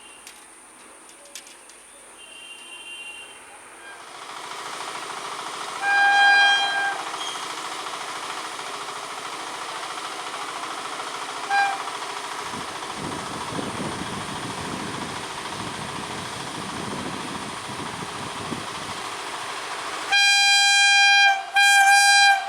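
Electric train approaching: a horn blast about six seconds in and a short toot near halfway. The rumble of the train running past grows from about halfway, and two loud horn blasts come near the end.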